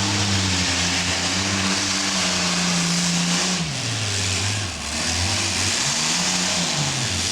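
Twin Allison V-1710 V12 aircraft engines of a modified pulling tractor running hard down the track. The engine note holds steady, drops about three and a half seconds in, climbs again briefly, and falls off near the end.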